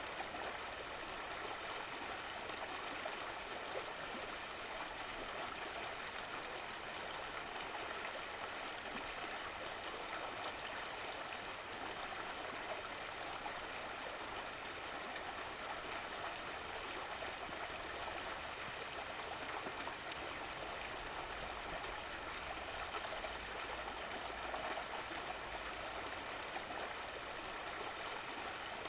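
Stream of running water flowing and gurgling steadily.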